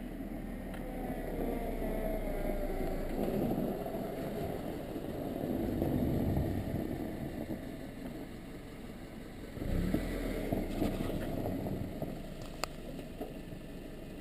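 Car engine revving up, its pitch rising over the first couple of seconds, then running with a low rumble and road and wind noise. A few sharp clicks come near the end.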